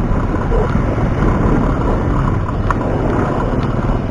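Wind buffeting the microphone of a chest-mounted action camera on a moving bicycle: a steady, loud rushing rumble, with a faint click about two and a half seconds in.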